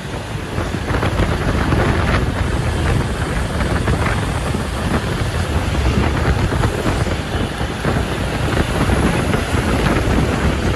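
Loaded truck on the road: a steady, loud mix of engine and road noise.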